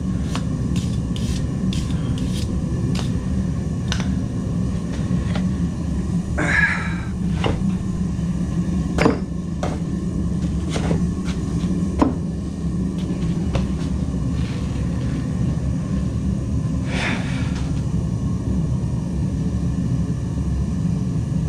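Forge fire running with a steady low rumble, with scattered light metallic clicks and clinks of tools and stock, and two short scraping noises, one about a third of the way in and one near three-quarters.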